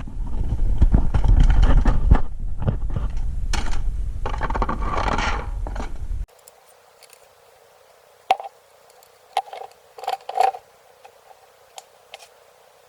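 Scraping and knocking from hands and tools working under a car, with a heavy rumble, cutting off suddenly about six seconds in; after that only faint noise with a few sharp clicks.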